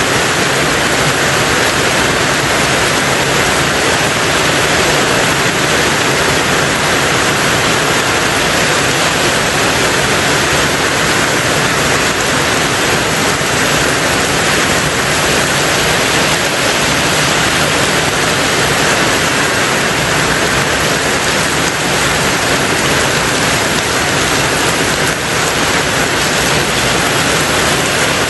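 Steady heavy rain on a tin roof: a dense, even hiss of drops on the metal with no single strikes standing out.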